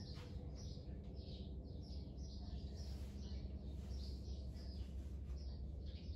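Birds chirping in quick, repeated short notes, over a low steady rumble.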